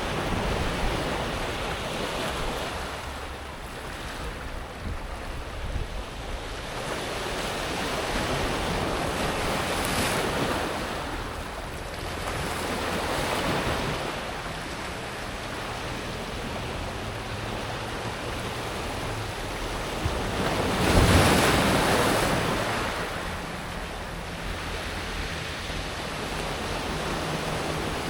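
Small waves breaking and washing over a pebble beach, the water rolling the smooth stones as it runs up and drains back. The wash swells and fades every few seconds, with the loudest surge about three quarters of the way through.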